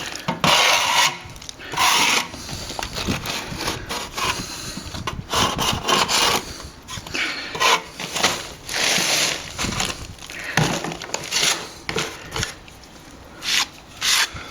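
A plastering tool scraping and rubbing over a partly set patch of sand-and-plaster mix on a wall, in repeated irregular strokes with a gritty hiss, as the patch is cut back to match the sand texture.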